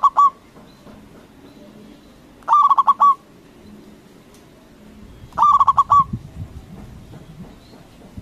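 Zebra dove (perkutut) singing: short phrases of rapid staccato coos, each about half a second long and repeated about every three seconds.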